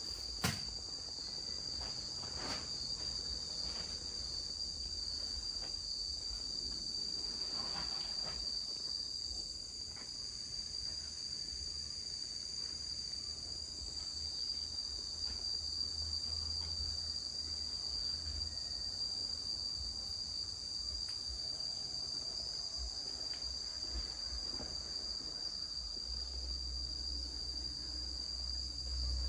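Steady high-pitched chorus of insects, with a few faint knocks and a low rumble coming up near the end.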